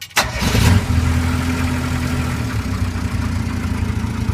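Kubota G2000 yard tractor's liquid-cooled gasoline engine starting on the key: a click, then it catches, flares up briefly and settles into a steady idle.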